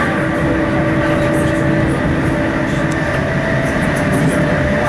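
Class 455 electric multiple unit running at speed, heard from inside a passenger coach: a steady rumble of wheels on rails with a constant whine on top. One lower tone in the whine stops about three seconds in.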